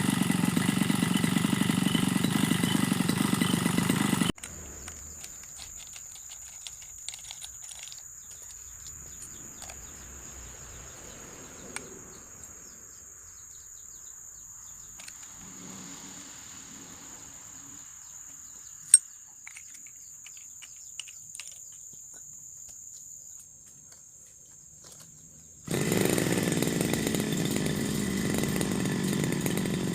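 Brush cutter engine running steadily, cutting off abruptly about four seconds in. A quiet stretch of faint clicks and taps with a thin high whine follows. The engine comes back loud and steady near the end.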